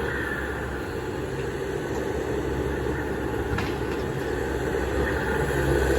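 Heavy diesel machinery, a hydraulic excavator and dump truck at work loading dirt, running with a steady low rumble. A faint click comes about three and a half seconds in.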